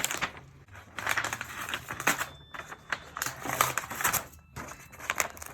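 Gift packaging being torn open, a dense run of irregular crackles and clicks with short pauses between flurries.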